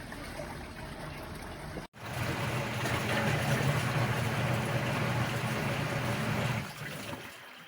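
Costway portable mini washing machine in use with water in the tub. About two seconds in an abrupt cut leads to a louder stretch where a steady motor hum runs under the water noise, easing off near the end.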